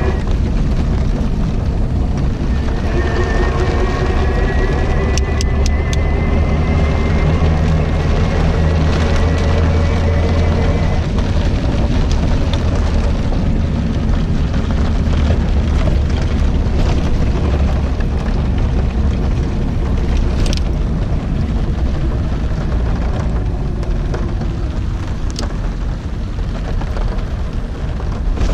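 Storm wind buffeting the microphone as a heavy, steady low rumble, with rain and road noise beneath it. A faint whine rises slowly over the first ten seconds or so.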